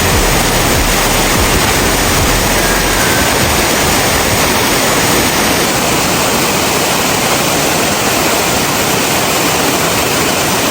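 A waterfall: a loud, steady rush of falling water.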